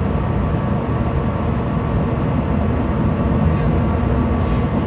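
Steady low rumble on a ship's bridge, with the main engine running dead slow astern during berthing.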